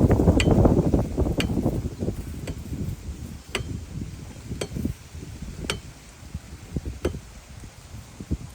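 Wind buffeting the microphone with a low rumble that eases after about two seconds, while sharp ticks or taps come about once a second.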